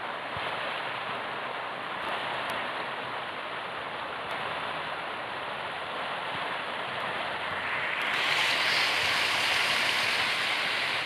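Small waterfall's water rushing steadily, growing louder and brighter about eight seconds in.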